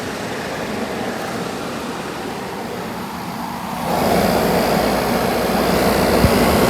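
A 2001 Kenmore 8,000 BTU window air conditioner, built by WCI, running in cooling mode: a steady rushing of its fans with the R-22 compressor running smoothly. The noise grows louder about four seconds in.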